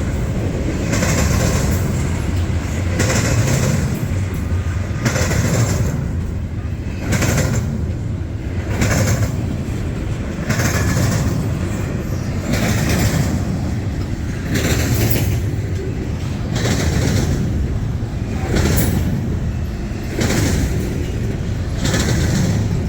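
Intermodal freight train rolling past: a steady low rumble of wheels on rail, with a rhythmic clatter about every two seconds as the cars go by.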